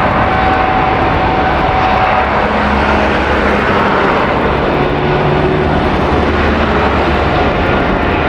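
Boeing 777-300ER's twin GE90 turbofan engines at takeoff power: a loud, steady jet rush with a faint whine.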